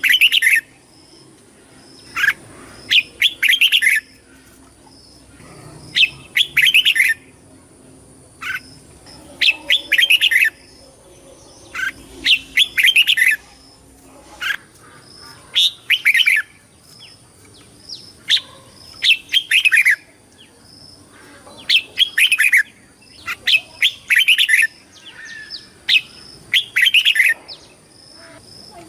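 Red-whiskered bulbul singing: short, bright phrases of quick whistled notes, repeated every two to three seconds.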